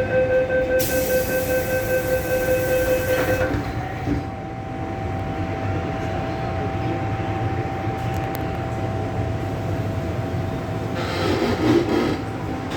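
MTR M-Train door-closing warning beeping rapidly for about three and a half seconds, with a hiss as the doors close. After that comes the train's steady running rumble with a faint steady whine.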